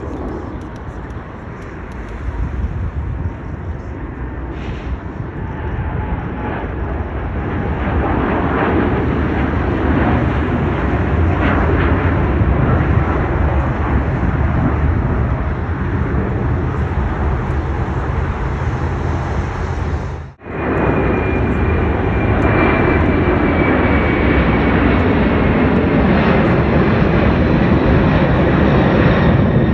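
Jet airliner engines passing close by: loud, steady engine noise builds over several seconds. After a sudden cut about twenty seconds in, a jet's engine noise resumes with a thin high whine that slowly falls in pitch.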